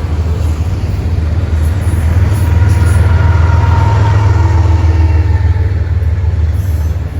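Freight train rolling past, a heavy low rumble that swells to its loudest in the middle and eases off near the end, with a faint whine over it midway.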